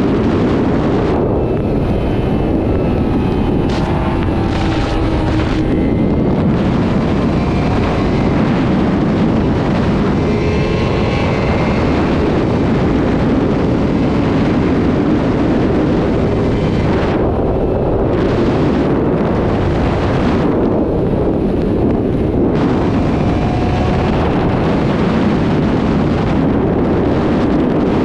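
Sport motorcycle riding at speed, heavy wind rushing over the microphone. Underneath, a faint engine note rises and falls in pitch a few times as the rider works the throttle.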